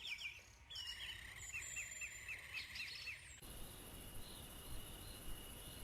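Faint bird calls: a quick series of about eight short chirps, about three a second. About two thirds of the way in they give way to a steady high insect-like drone.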